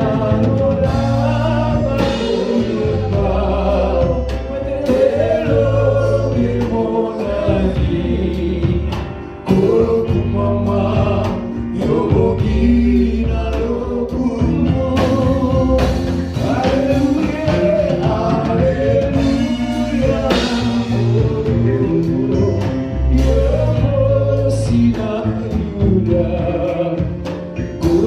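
Live gospel praise-and-worship band playing, with singers over drums and bass keeping a steady beat.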